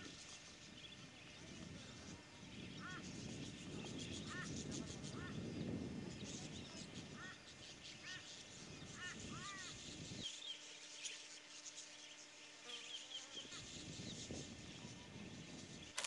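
Birds calling with short, repeated chirping notes over a low rumbling background. About ten seconds in the rumble drops away suddenly, leaving a faint steady hum under higher chirps.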